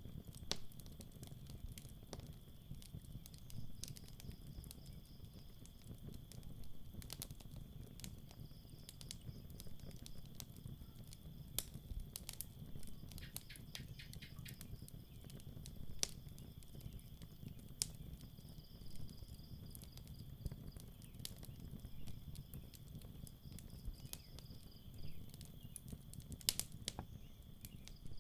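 Campfire crackling, with irregular sharp pops and snaps over a low steady rumble of the burning wood. A steady high trill of night insects, with pulsing chirps that come and go, runs underneath.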